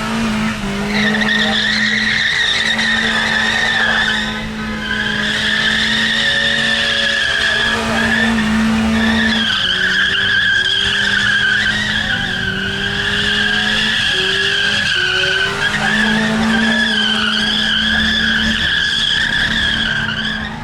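A car drifting, its tyres squealing in long wavering stretches with a few short breaks, while the engine is held at high revs and steps up and down.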